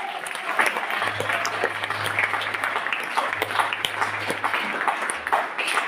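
Congregation clapping and applauding, many sharp claps throughout, with a low steady hum underneath from about a second in.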